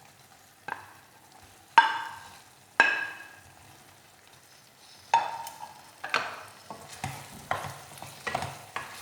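A metal utensil knocks three times against the cooking pan, each knock ringing briefly. From about halfway, fried chicken pieces are stirred in a sizzling, simmering sauce, with repeated scrapes of the utensil against the pan.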